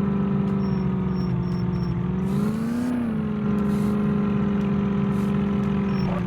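Tractor engine running steadily, its pitch rising briefly and falling back about two and a half seconds in, as if revved once.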